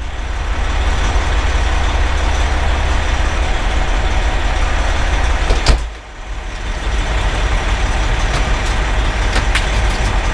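Pierce Velocity fire engine's 470 hp Detroit Diesel Series 60 engine pulling under way, a steady low drone. About six seconds in there is a click and the engine sound drops briefly before building up again.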